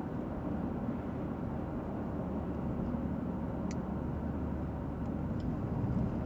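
Steady road and engine noise heard from inside a moving car's cabin, with one faint tick about three and a half seconds in.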